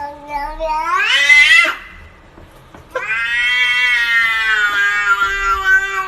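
A cat giving two long, drawn-out meows. The first rises in pitch and breaks off near two seconds in. The second holds for about three seconds and sinks a little at its end.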